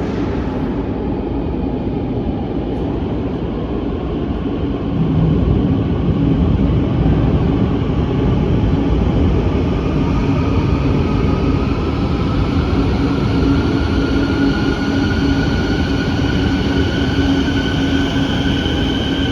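Quito Metro train running, louder from about five seconds in, with a whine from its electric traction motors rising steadily in pitch as it gathers speed.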